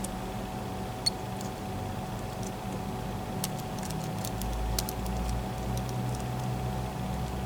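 Scattered light clicks of lock picks and a tension wrench working the pins of a Mul-T-Lock MT5+ high-security cylinder, over a steady low hum.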